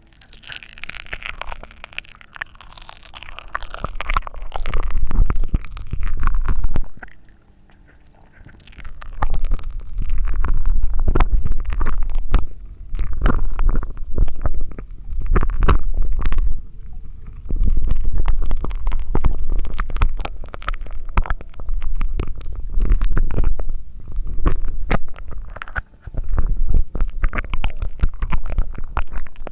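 Close-miked ASMR mouth sounds: repeated bursts of low gurgling packed with fine crackling, each lasting a few seconds with short pauses between.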